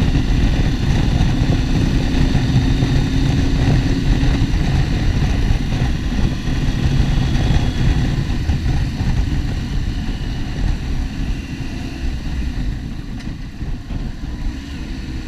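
Motorcycle engine running under way, mixed with wind rush on a helmet-mounted camera, its pitch shifting as the bike speeds and slows; it gets quieter over the last few seconds.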